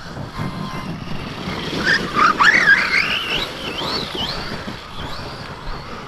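Battery-electric 4S RC truck's brushless motor whining as it is throttled up and down, its pitch rising and falling several times, loudest about two seconds in.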